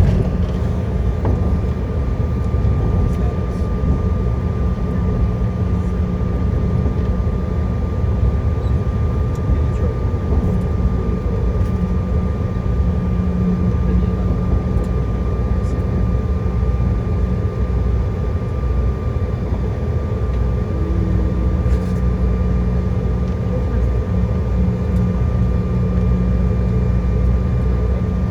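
Airliner cabin noise while taxiing after landing: the engines and airflow make a steady hum, with a thin, steady high tone over it.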